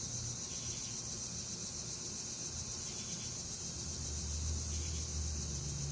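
Steady, high-pitched chorus of insects such as crickets in the evening woods, with a faint low hum underneath that grows slightly louder about four seconds in.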